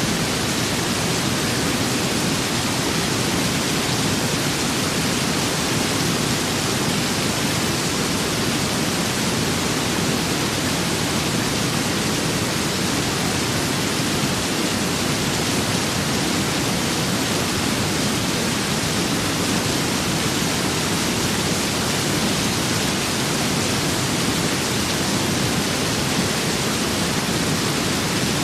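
Rain with wind, a steady even hiss that does not change.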